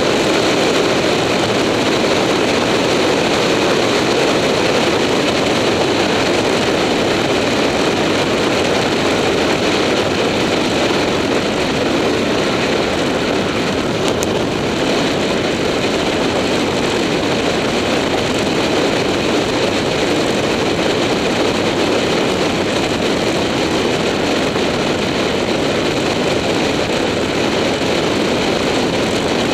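Motorcycle riding at a steady speed: engine noise mixed with wind rushing over the action camera's microphone.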